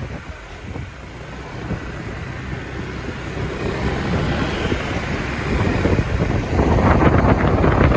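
Wind buffeting the microphone while riding a motorbike, with engine and road noise beneath, growing louder toward the end.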